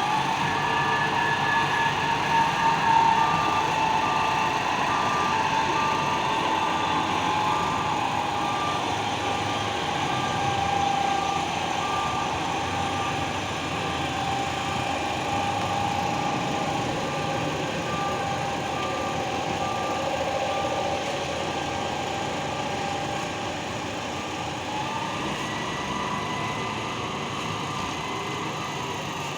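Heavy truck engine running steadily with a whine that drifts slowly in pitch, and a reversing alarm beeping about once a second that stops after roughly twelve seconds.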